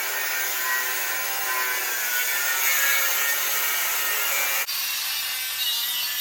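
Angle grinder cutting through the steel tractor frame: a steady, harsh grinding that drops out for a moment about two-thirds through, then carries on.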